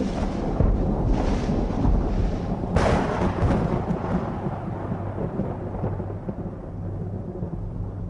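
Thunderstorm sound effect: a continuous rumble of thunder, a sharp thunderclap about three seconds in, then the rumble slowly dies away.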